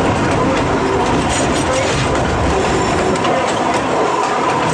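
Cumbres & Toltec narrow-gauge passenger train rolling along the track: a steady rumble and clatter of wheels on rail, with faint regular clicks.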